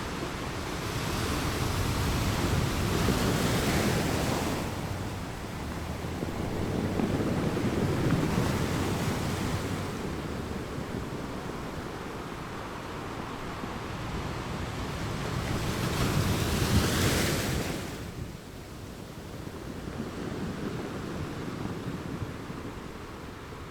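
Ocean waves breaking on rocks, a rushing surf that swells and eases three times. The last and loudest wave falls away suddenly, followed by a quieter wash.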